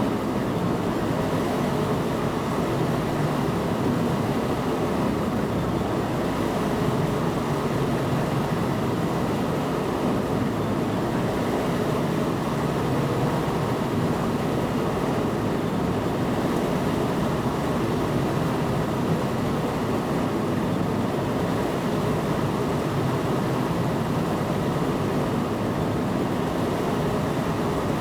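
A train running steadily, heard from inside the driver's cab: a continuous, even rumble that stays the same throughout.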